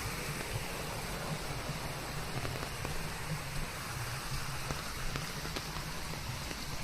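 Steady rain falling on leaves: an even hiss with many single drops ticking through it.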